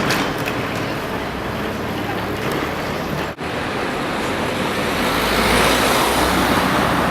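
Street traffic noise, steady, with one vehicle passing louder just past the middle, and a brief break where the sound cuts.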